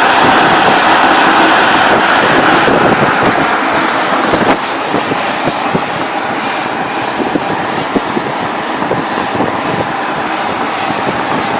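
Road noise of a truck driving: a steady rush of tyre and wind noise with no engine note, dropping a little in level about four and a half seconds in.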